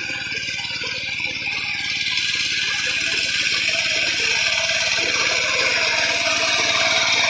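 Tractor engine running with a metallic rattle, slowly getting louder.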